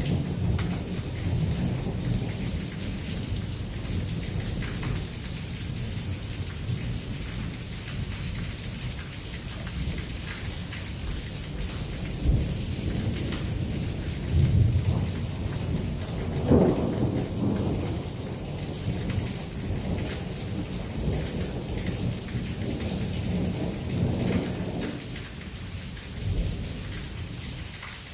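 Heavy rain pouring steadily while thunder rumbles. The thunder swells several times in the second half, loudest in a peal about two-thirds of the way through.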